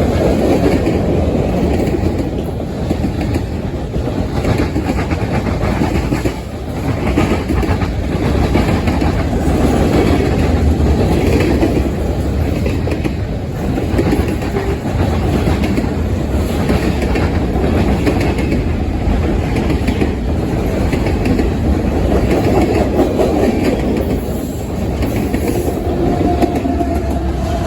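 Norfolk Southern train rolling past, a steady loud rumble of railcars with wheels clacking rhythmically over the rail joints. A faint steady tone comes in near the end.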